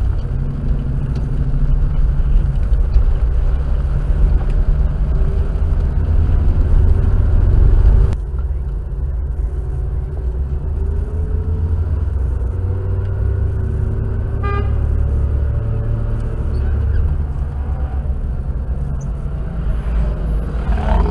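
Steady engine and road noise inside the cabin of a small Suzuki SJ-series 4x4 while driving. The sound changes abruptly about 8 seconds in, and a short horn toot sounds about two-thirds of the way through.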